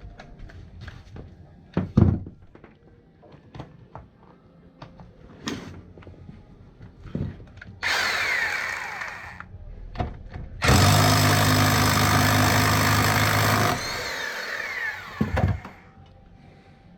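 A handheld power tool runs in two bursts: a short one of about a second and a half, then a steadier, louder run of about three seconds. Clinks and knocks of metal tools being handled come before and between them.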